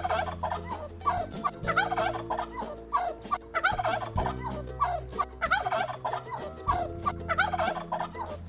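Domestic turkey gobbling again and again, a rapid rattling call about once a second, over soft background music.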